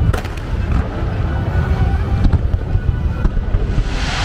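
Fireworks going off: constant deep booming with a few sharp cracks, and a burst of hissing crackle near the end.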